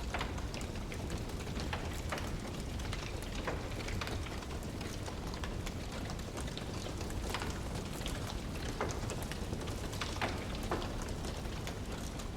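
Wood fire burning in a fireplace, crackling with frequent irregular sharp pops over a steady low rushing noise.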